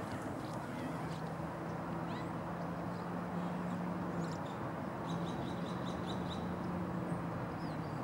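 Small birds giving faint, short high chirps over a steady background rumble with a low hum. About five seconds in, a quick run of short high notes, about five a second, lasts a second and a half.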